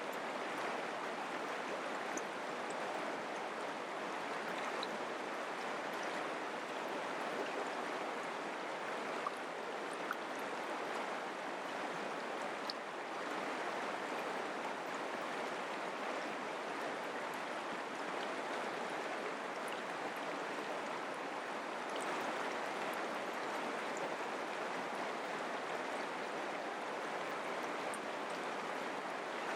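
Mountain creek flowing, a steady unbroken rush of water with a few brief splashes here and there.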